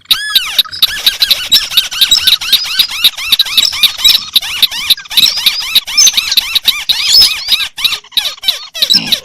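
Rice-field crakes calling, several at once: a dense, continuous chatter of short, squeaky, arching chirps overlapping one another, with no pauses.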